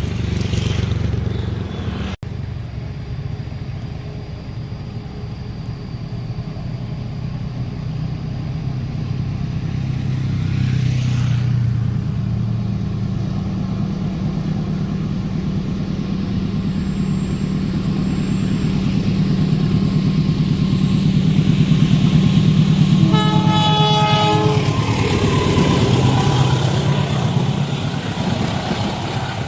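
An approaching train's diesel locomotive rumbling, growing steadily louder, with one horn blast of about a second and a half near the end.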